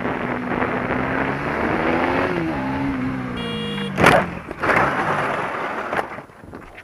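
Motorcycle engine running and rising in pitch as it accelerates, then falling as it slows; a horn blares briefly, and about four seconds in a loud crash of impact follows, with further knocks and scraping: the bike colliding with a car that pulled out in front of it.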